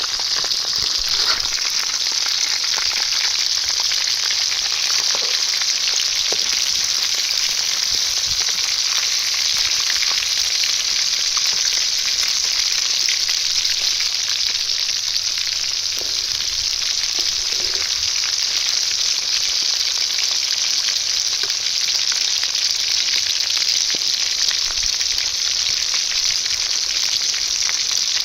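Quail curry frying in hot oil in a pan: a steady sizzle with faint scattered crackles that does not let up.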